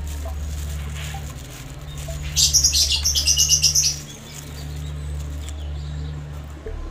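A bird calls a quick run of high chirps for about a second and a half, midway through, over a steady low hum.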